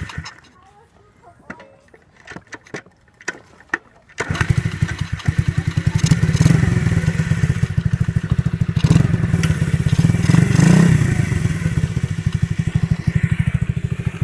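Coolster gas dirt bike's small engine: a few clicks and knocks, then about four seconds in the engine catches and runs with a fast, even beat, swelling louder a few times as the throttle is blipped.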